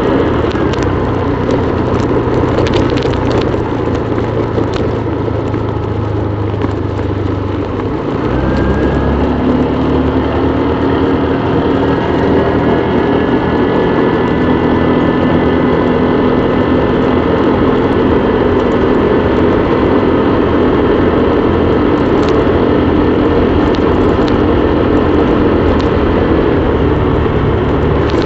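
Small motorbike engine running steadily on the move, its note rising about eight seconds in and then holding at the higher pitch.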